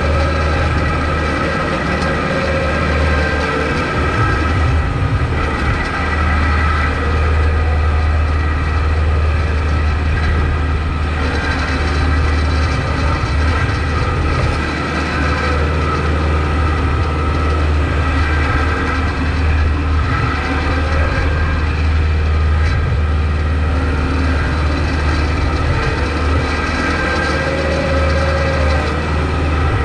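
Kubota MX5200 tractor's four-cylinder diesel engine running steadily with a deep drone while plowing snow. A faint whine rises and falls a few times.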